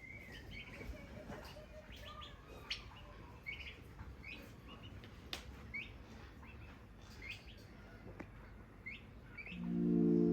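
Short, high bird chirps repeating roughly once a second, with a few sharp taps among them. Music comes in near the end and is the loudest sound.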